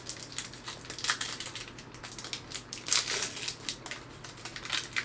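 Trading cards and their pack wrapper being handled: irregular crinkling, rustling and small clicks as the cards are slid through the hands, with busier moments about a second in, around three seconds and near the end.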